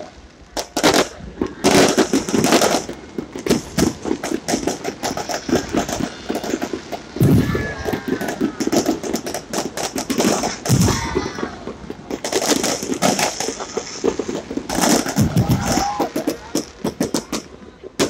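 New Year's fireworks going off in rapid, irregular volleys of sharp bangs and crackling, with a few deeper booms about 7, 11 and 15 seconds in.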